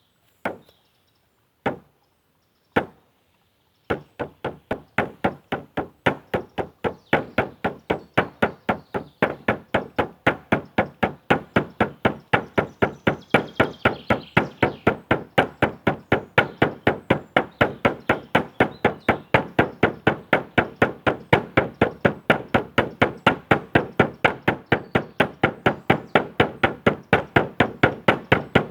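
A drum struck three single times, then beaten in a steady, even rhythm of about four strikes a second.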